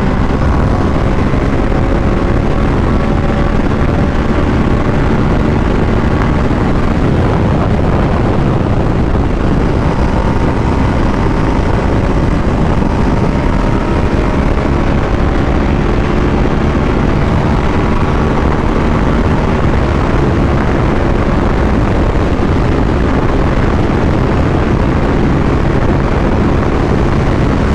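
A superbike's engine pulls steadily at highway speed under a heavy rush of wind on the helmet microphone. The engine note slowly climbs in pitch as the bike gathers speed.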